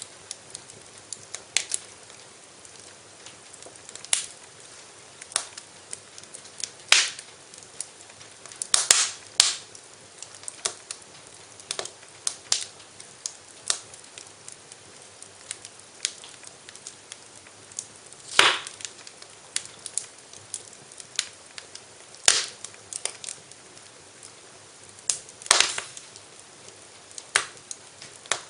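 Wood fire in a fireplace crackling, with irregular sharp pops and snaps over a faint steady hiss. The loudest pops come about seven seconds in, around nine seconds, and near eighteen, twenty-two and twenty-five seconds.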